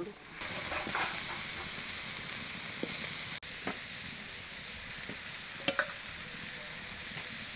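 Spice masala sizzling in a kadai as boiled potatoes are broken into it by hand: a steady frying hiss that starts about half a second in, with a few soft taps.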